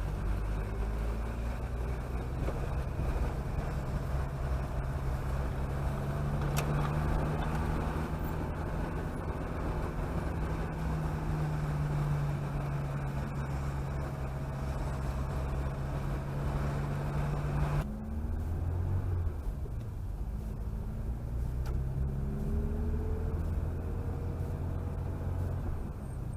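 Chevrolet Chevette engine running while driving, with tyre and road noise. About 18 seconds in, the road noise drops suddenly, and the engine note then rises again as the car picks up speed.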